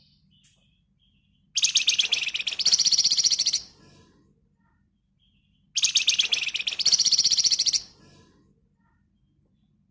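Flamboyan songbird giving two loud, rapid, chattering trills about two seconds long, a few seconds apart. Each trill shifts partway through to a higher, denser buzz. Faint short chirps come in between.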